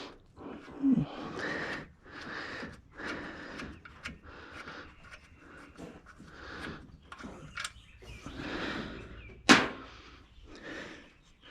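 Wrench work backing out a just-loosened bolt: repeated short metallic scraping and clicking strokes, with one sharp knock about nine and a half seconds in.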